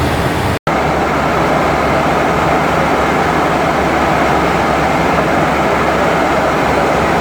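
Steady rush of air and hum on the flight deck of a Boeing 737NG in cruise, cut off for a split second just over half a second in, then going on unchanged.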